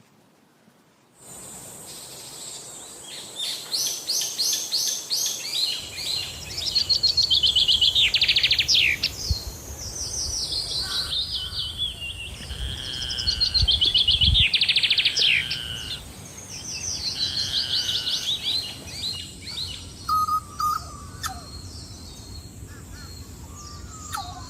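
Rufous hornero song: loud bouts of rapid, evenly repeated notes that fall in pitch, with two voices overlapping as in the species' duet, repeated several times. It starts about a second in, with a steady high whine beneath.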